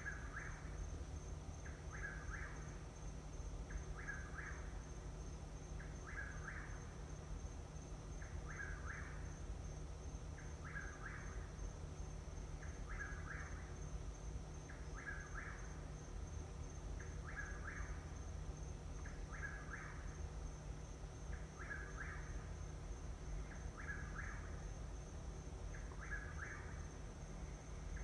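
A night-calling bird repeating a short two-part call about every two seconds, evenly spaced, over a steady high-pitched whine.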